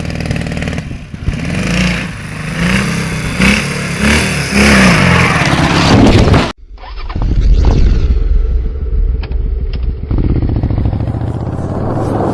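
Motorcycle engine revving, its pitch rising and falling several times. Then, after an abrupt cut, a lower, steadier engine rumble with a few sharp clicks.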